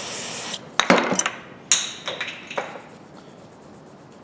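A brief hiss, then several sharp metallic clinks and knocks with a short ring as steel grooved pliers are handled and set down against other metal.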